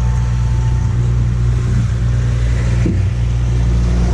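Farm tractor pulling a logging trailer, its engine running steadily as it goes by.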